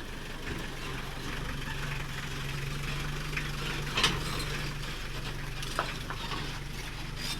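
An odong-odong's engine running steadily on the road, a constant low hum under road noise, with a sharp knock about four seconds in and a lighter one near six seconds.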